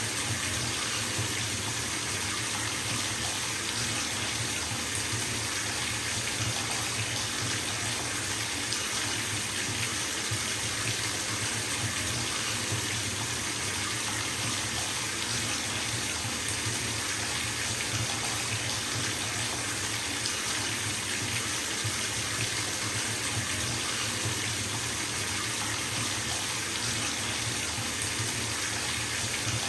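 Bathtub filling from its tap: water running steadily from the spout and splashing into the tub.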